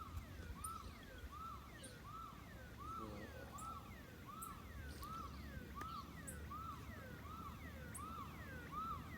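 An electronic alarm repeating a short rising-and-falling whoop, about three every two seconds, without a break.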